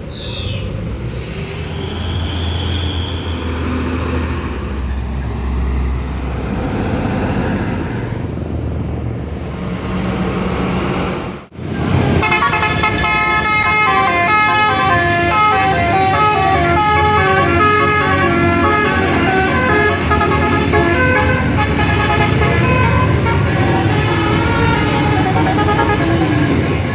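Heavy truck engine running and passing with road noise for about eleven seconds. Then, after an abrupt break, a multi-tone horn sounds a long run of changing notes like a tune.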